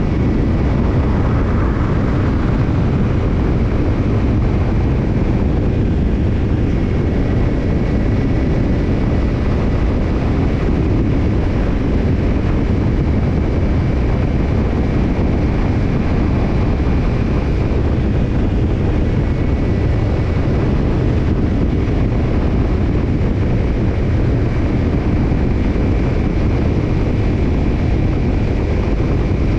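Kawasaki Ninja 250 parallel-twin running through a BEET NASSERT Evolution Type II titanium slip-on muffler, with a steady, low exhaust note that holds without clear revving.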